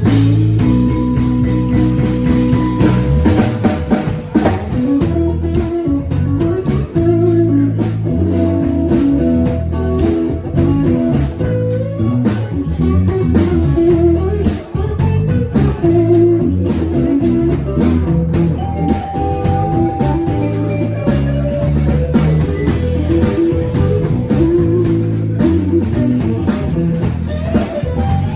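Band music: guitar over bass and a drum kit, with a blues-rock feel.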